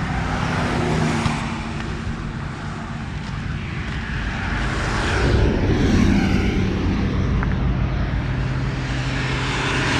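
Steady motor-vehicle noise: a low engine hum under a haze of noise. It swells to its loudest about five to six seconds in, as of a vehicle passing, then settles back.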